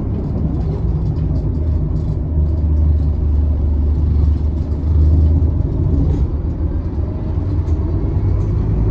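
Scania K280UB city bus under way, a steady low engine and road rumble that swells louder for a few seconds midway.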